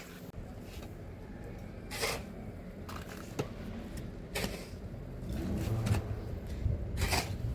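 Scattered rustling and handling noises, with brief sharp scrapes about two, four and seven seconds in.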